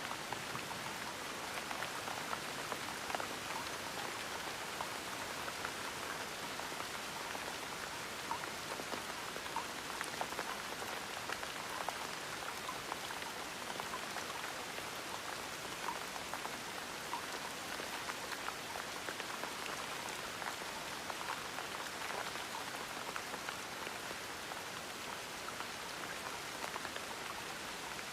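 Steady gentle rain falling, an even patter with many small drops ticking on a surface.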